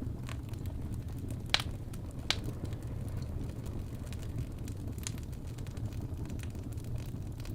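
Wood fire crackling in a fireplace: a steady low rumble of burning logs with scattered sharp pops, the two loudest close together about a second and a half in.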